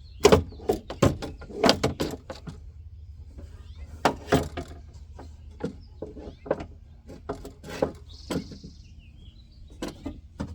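Irregular clicks and clanks of a car window regulator and its bolts being handled and fitted into a door, with a brief soft hiss about eight seconds in.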